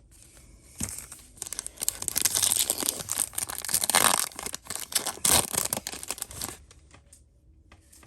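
A foil Yu-Gi-Oh! booster pack being torn open and crinkled: a run of tearing and crackling that starts about a second in and stops about six and a half seconds in.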